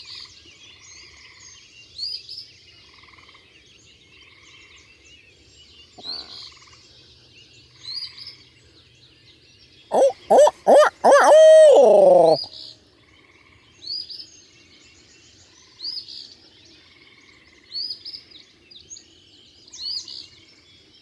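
A barred-owl hoot, very loud and close, about ten seconds in: a quick run of short hoots ending in a long note that falls away, as blown on a turkey hunter's owl locator call to make a gobbler shock-gobble. Under it, a songbird repeats a short high phrase about every two seconds.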